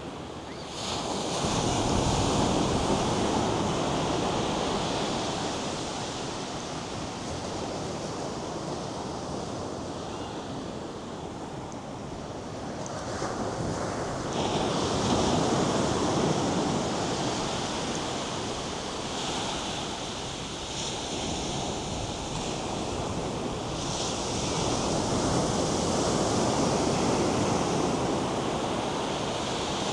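North Sea surf: waves breaking and washing up the sandy shore in slow swells, louder about a second in, again about halfway through, and again near the end.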